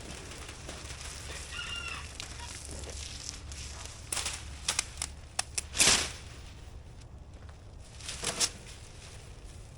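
A chicken calling briefly, then a run of short crackling rustles, the loudest about six seconds in and a few more near the end.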